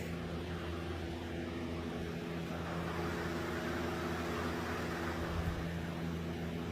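Steady mechanical hum with an even hiss, a motor or fan running at constant speed.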